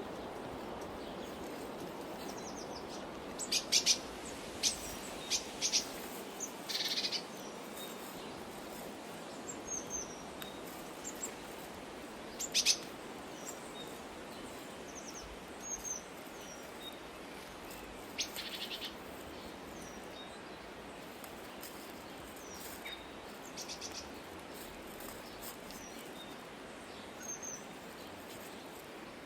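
Wild birds chirping and calling: scattered short, high chirps and a few brief bursts of rapid notes, over a steady low background hiss.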